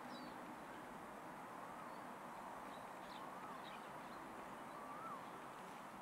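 A bird repeating a short whistled call that rises and falls, about once every second and a half, with a few faint short high chirps between, over a steady background hiss.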